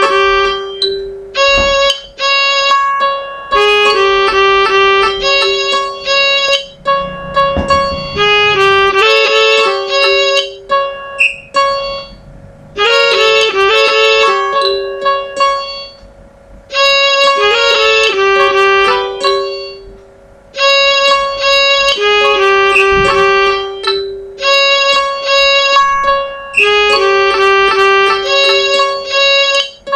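Computer-played MIDI music whose notes are generated from the line segments of an engineering drawing: held notes under quick runs of higher notes, breaking off briefly every few seconds.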